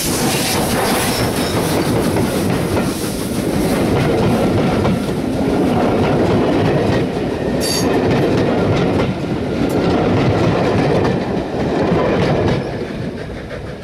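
Passenger train hauled by Southern Railway N15 'King Arthur' class steam locomotive 30777 Sir Lamiel, climbing and running past close by: the locomotive at first, then its coaches' wheels on the rails. The noise drops about twelve and a half seconds in as the last coach goes by.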